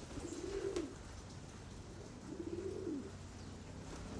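Pigeon cooing: two low coos, one about half a second in and another around two and a half seconds in.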